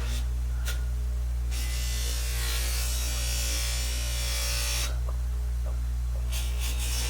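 A small electric power tool running with a steady low hum, with a harsh scratchy rasp from about one and a half seconds in to about five seconds, and again near the end, as it is worked against the drill's parts to clean them.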